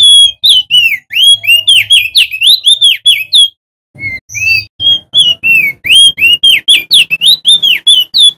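Male crested darkeye (opior jambul) singing loudly: quick runs of short whistled notes, each sharply rising or falling, about four a second, in two phrases broken by a brief pause about three and a half seconds in.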